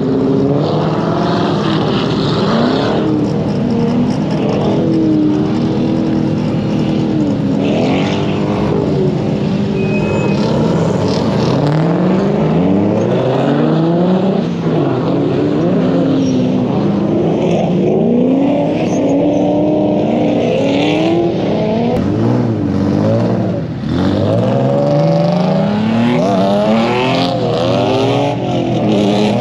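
Drift car engine revving hard and falling back again and again through a drift run, its pitch sweeping up and down every second or two.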